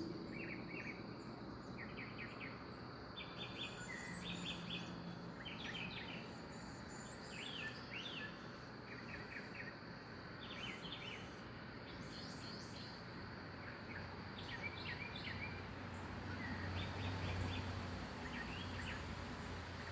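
Small birds chirping in short, repeated calls over a steady background hiss of outdoor ambience, with a faint low hum rising late on.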